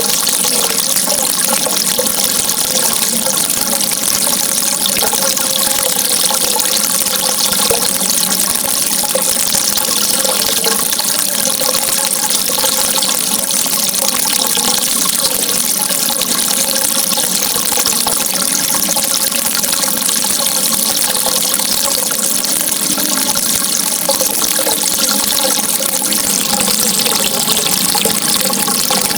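Running water, a continuous even rush that holds steady throughout.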